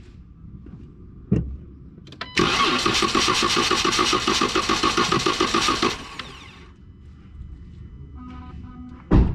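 A 2012 Chrysler 300S being cranked by its starter for about three and a half seconds, with an even pulsing rhythm. The engine does not catch, a crank-no-start with no fuel reaching the engine even with the fuel pump feed jumpered. A loud thump follows near the end.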